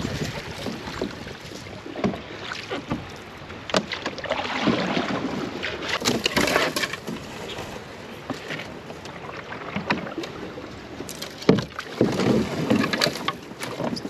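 Canoe being moved by hand through shallow canal water: irregular splashing and sloshing with a few sharp knocks against the hull, the loudest about eleven and a half seconds in.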